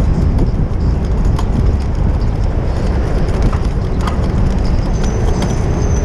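Wind buffeting a GoPro's microphone while cycling on a city street: a heavy steady rumble, with irregular rattling clicks from the bike over the road and traffic around it. A faint high whine sounds briefly near the end.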